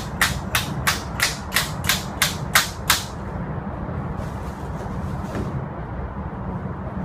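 A hammer striking metal in a steady rhythm, about three blows a second, stopping about three seconds in. A steady low hum runs underneath.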